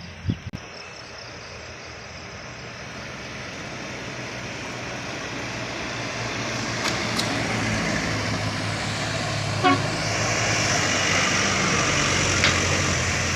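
Truck engine running, getting steadily louder as the truck comes on, with a short horn toot about ten seconds in.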